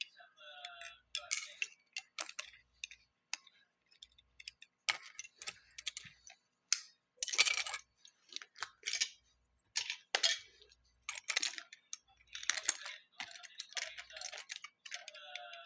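Plastic Lego bricks clicking and clattering as pieces are handled and pressed together, in irregular sharp clicks with a few longer rattling bursts.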